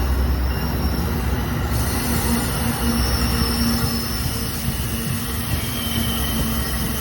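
Amtrak passenger train rolling slowly into a station, a steady rumble with faint high wheel and brake squeals coming and going.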